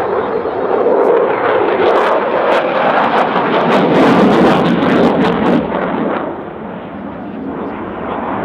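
Eurofighter Typhoon's twin Eurojet EJ200 turbofans at high power in display flight: a loud, rushing jet noise with sharp crackling between about two and five and a half seconds in, easing a little near the end.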